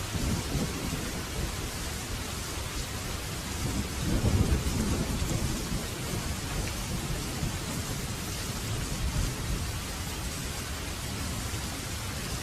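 Heavy rain falling steadily, with low rumbles of thunder rolling under it, the loudest about four seconds in.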